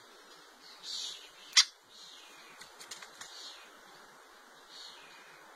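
Birds chirping back and forth: one sharp, loud chip about one and a half seconds in, and softer, higher chirps from other birds answering around it. A few faint clicks come near the middle.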